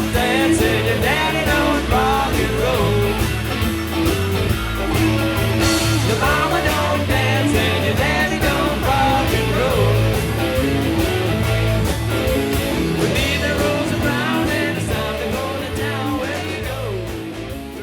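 Live classic rock band playing: bending electric guitar lines over bass and a steady drum beat, with some sung ad-libs. The music fades out over the last couple of seconds.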